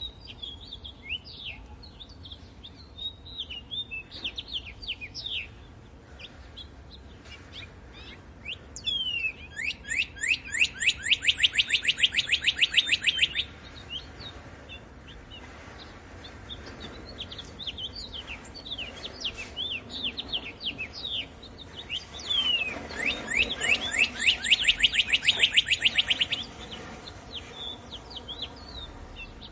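Songbirds singing: scattered short chirps throughout, and twice a loud, fast trill of rapid sweeping notes lasting about four seconds.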